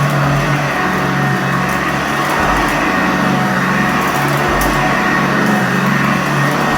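Sanitaire commercial upright vacuum cleaner running steadily on carpet, its motor and brush roll giving a continuous hum and whir.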